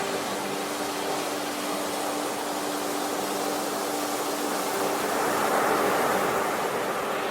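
Ocean surf washing steadily, with a wave swelling in about five seconds in and easing off near the end. A faint steady low hum runs underneath.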